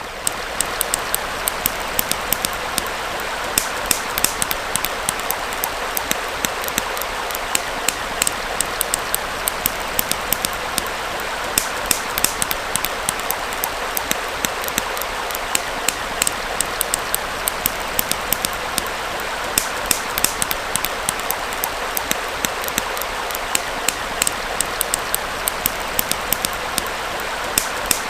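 A small stream flowing steadily, with frequent sharp, irregular crackles and pops from a wood campfire.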